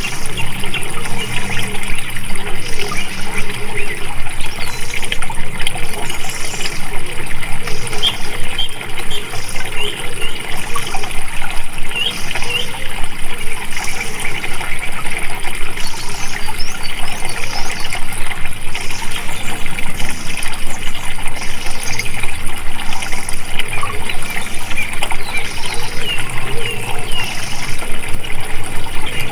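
Water flowing and splashing steadily, with small birds giving short chirps scattered over it. A high pulsing sound comes and goes about once a second.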